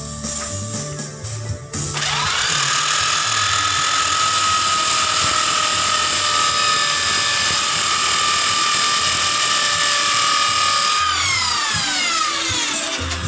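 Small electric power tool spinning up about two seconds in, running at a steady high whine for about nine seconds, then winding down in pitch near the end. Background music plays underneath.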